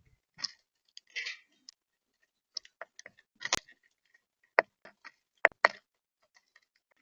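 Irregular sharp taps and clicks of birds pecking seed at a camera bird feeder, about a dozen in a few seconds, the loudest two close together about two thirds of the way in.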